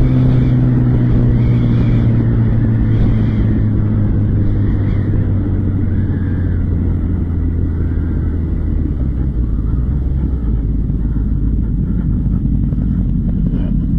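Motorcycle engine running, its note falling slowly and steadily as the bike decelerates.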